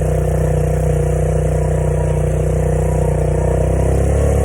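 Small automatic motorbike (scooter-type) engine running steadily while being ridden, its pitch shifting slightly near the end.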